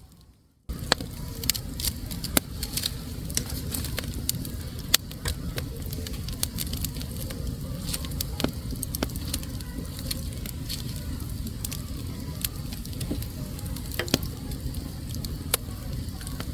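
Wood fire burning in a fireplace: a steady low rumble of flames with frequent sharp, irregular crackles and pops. It starts abruptly after a brief silent gap just after the beginning.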